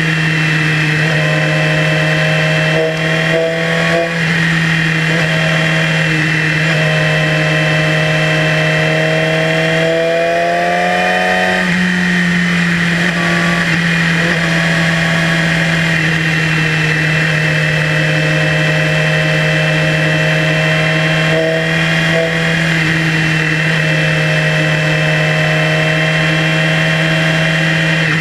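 Yamaha YZF-R6 inline-four sport-bike engine running at a steady cruise under rushing wind. About ten seconds in the engine pitch climbs, then eases back down over the next few seconds.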